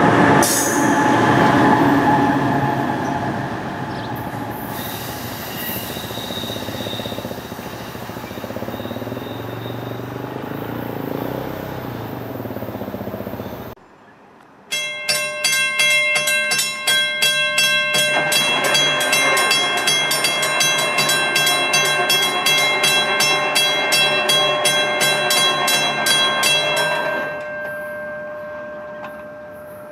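A passenger train running through and dying away. After a sudden break, a train's horn sounds one long blast of about twelve seconds over a rapid regular clicking, about four a second, then fades near the end.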